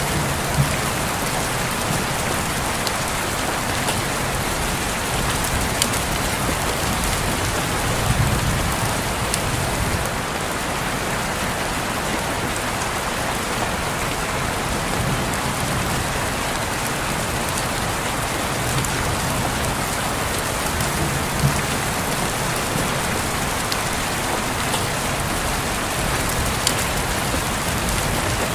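Steady rain on a window: an even hiss with now and then a single louder drop tap, and soft low rumbles swelling and fading a few times.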